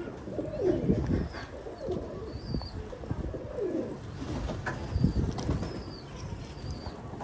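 Pigeons cooing, a few low rolling coos, with wings flapping and scuffling.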